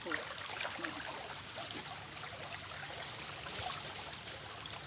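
Shallow water trickling and sloshing, with small scattered splashes and clicks.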